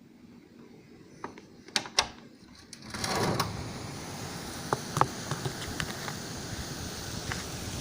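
A few sharp clicks and knocks, then about three seconds in a steady rush of blizzard wind that holds, with wind buffeting the microphone.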